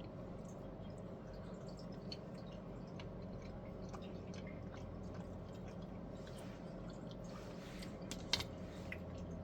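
Faint chewing and mouth sounds of someone eating a toasted breakfast pastry, with small scattered clicks over a steady low hum and one sharp click a little past eight seconds in.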